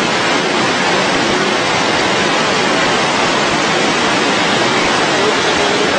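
Floodwater rushing, a loud and steady wash of noise with no breaks.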